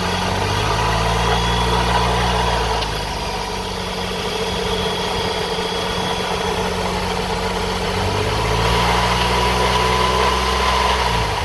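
The 2004 Toyota Sienna's 3.3-litre V6 running, revved up twice, about half a second in and again about eight seconds in, each time dropping back. A steady high whine runs over it. This is the engine with the bad, screeching noise being diagnosed, which the owner traces among the pulleys, water pump and timing belt.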